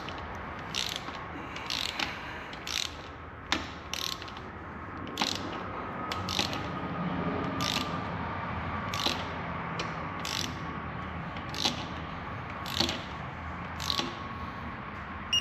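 Hand ratchet wrench being swung to tighten bolts on a turbocharger line, a short burst of pawl clicks on each backstroke about once a second.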